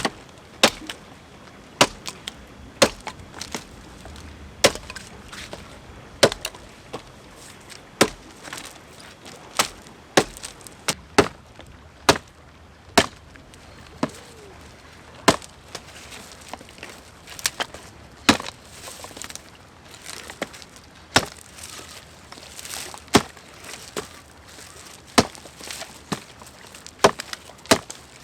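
Firewood being chopped: a long run of sharp strikes of a blade into wood, roughly one a second, unevenly spaced.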